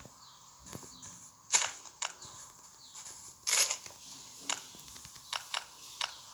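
Dry twigs and leaves snapping and crackling underfoot, in irregular sharp snaps, the loudest about a second and a half and three and a half seconds in.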